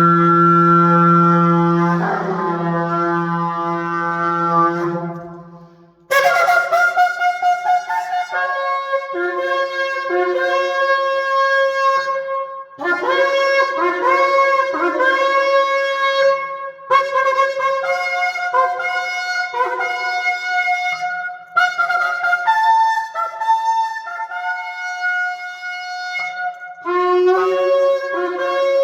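A 39-inch shofar, a long spiralled horn, being blown. It opens with one long low blast of about five seconds. After a short break it plays a long run of higher notes that step between several pitches, with brief breaks between phrases.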